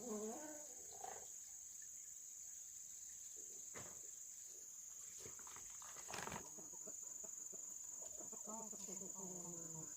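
Steady high-pitched insect drone, faint, with a few brief pitched calls near the start and again near the end and a couple of short knocks in between.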